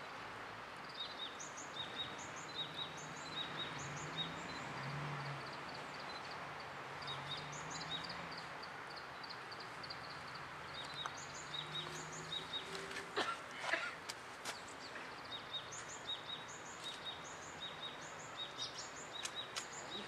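Small birds chirping over and over, short high falling chirps repeated about twice a second, over a steady outdoor background. A few sharp clicks come about two-thirds of the way through.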